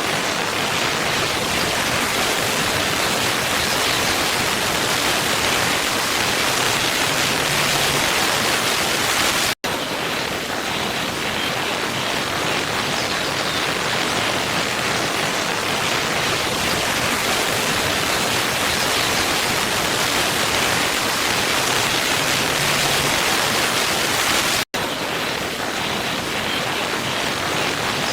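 Waterfall rushing in a steady, even roar of falling water, cutting out for an instant twice, about fifteen seconds apart, where the looped recording restarts.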